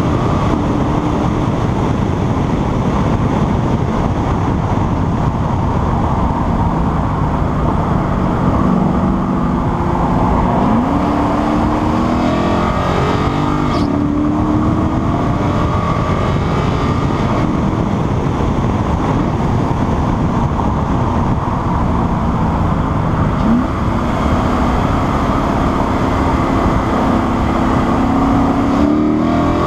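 Lexus IS-F's 5.0-litre V8 under track driving, its note climbing through the revs around a third of the way in and again near the end, over heavy wind rush on an outside-mounted microphone.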